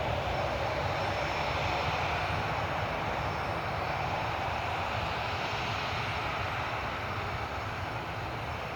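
Jet airliner's engines running as it passes, a steady rushing noise that slowly fades.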